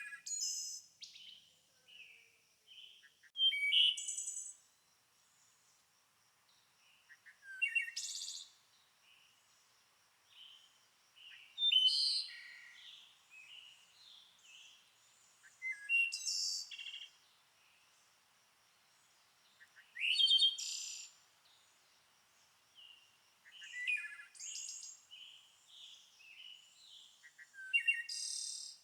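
A songbird singing short, varied, high-pitched phrases, one about every four seconds, with a faint steady high tone underneath.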